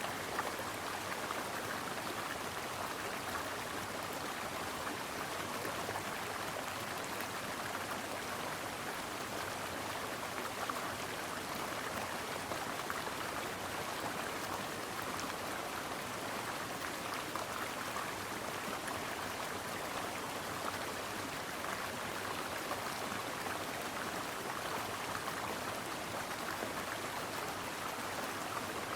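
A brook's water flowing in a steady, even rush.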